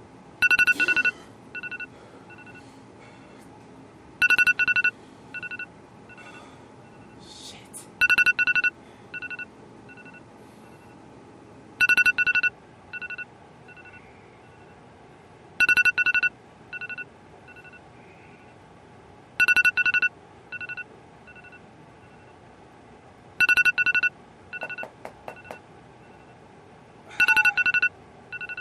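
Stevenson D 3150S24 electronic signalling device sounding a repeating pattern: two loud high-pitched beeps followed by a fainter short beep, the cycle repeating about every four seconds.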